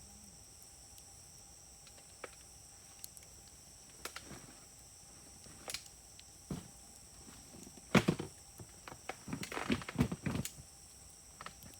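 Wood fire crackling and popping: scattered sharp pops at first, then a busier, louder run of crackles from about eight to ten and a half seconds in.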